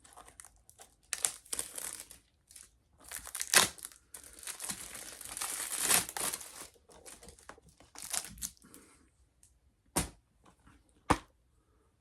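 Packaging crinkling and tearing as an item is unwrapped by hand, in irregular rustling spells, followed by two sharp clicks near the end.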